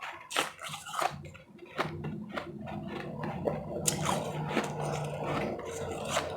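Powdery ice chips being crunched and chewed close to the microphone, a quick run of crisp crunches. From about two seconds in a steady low hum sits underneath the chewing.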